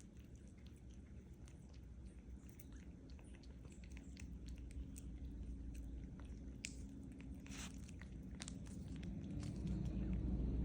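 Kittens chewing and crunching treats, with a scatter of small crisp crunches that come thickest a little past the middle.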